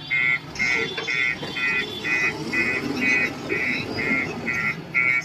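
A vehicle's reversing alarm beeping about twice a second, eleven short beeps in a row, over a diesel engine running.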